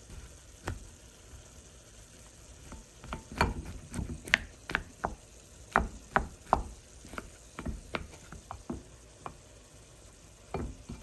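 A cooking utensil clicking and scraping against a dish as food is stirred and mixed, in irregular knocks a few times a second.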